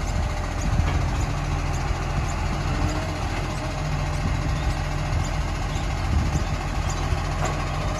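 Rubbish truck's engine idling steadily, with faint short high chirps repeating about twice a second.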